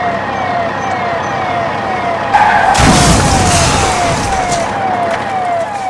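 A police-style siren wailing in short falling whoops, about two a second. Partway through, a loud rushing noise with a low rumble rises over it for about two seconds, then fades.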